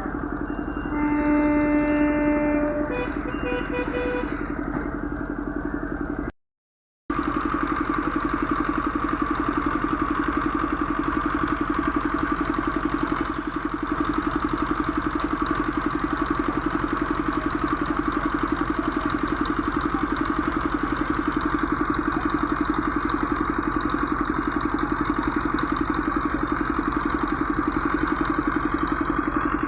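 A vehicle horn sounds for about two seconds, followed by a few short horn beeps; after a brief cut, an engine runs steadily at idle.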